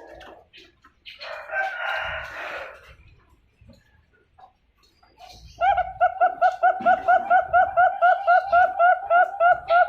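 A young Bangkok zebra dove (perkutut) cooing: a fast, even run of short notes, about four to five a second, starting a little past halfway. A brief rough call about a second in.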